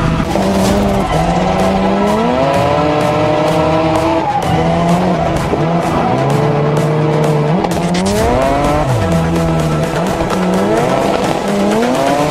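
Mazda MX-3 drift car's engine revving hard, climbing in pitch three times and dropping back in between, with tires squealing as the car slides. Electronic music with a steady beat plays underneath.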